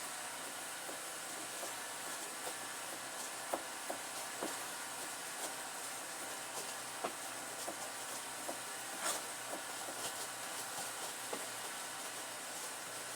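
Seasoned chicken sizzling in a hot pot: a steady hiss with small irregular crackles and pops, one louder pop about nine seconds in.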